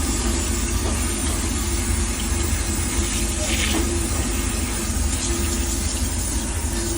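Custom refrigeration unit's noisy top section running: a steady low mechanical hum with a constant hiss over it, and a short louder hiss about three and a half seconds in.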